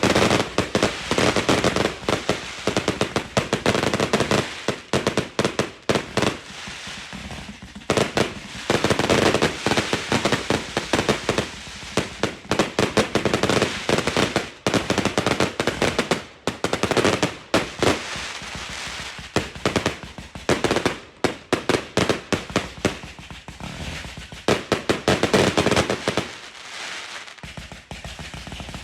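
Fireworks going off: volleys of rapid cracks and bangs, each lasting a few seconds, with short lulls between.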